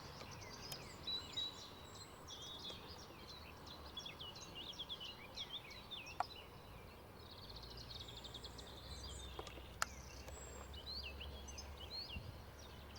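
Faint birdsong from several small birds, a busy mix of short chirps and trills. Two sharp clicks sound about six and ten seconds in, and a faint low rumble runs through the second half.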